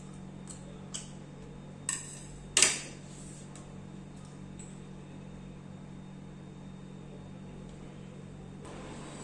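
A few light clicks and clinks of dishes and cutlery during a meal, with a sharper knock about two and a half seconds in, over a steady low hum.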